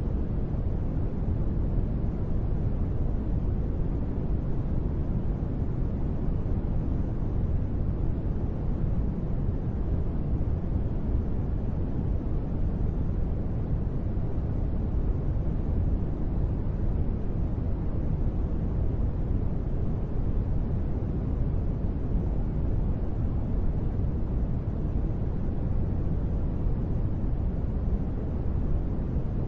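Steady rain white-noise ambience: an even, low rushing sound, strongest in the bass and muffled in the treble, with no separate drops or thunder.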